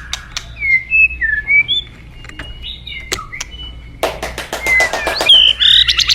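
White-rumped shama singing: clear whistled notes that slide up and down, mixed with sharp clicks, breaking into a fast rattling chatter about two-thirds of the way through.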